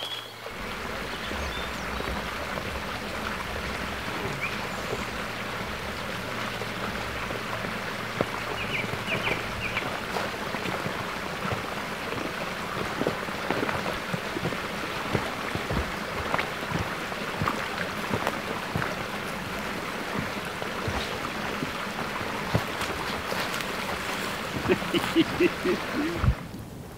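Steady rushing sound of running water, with scattered small clicks and knocks and a few louder knocks near the end.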